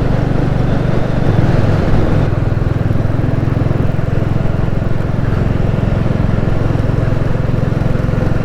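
Royal Enfield Classic 350's single-cylinder engine running steadily as the motorcycle rides along the road, briefly louder about a second in.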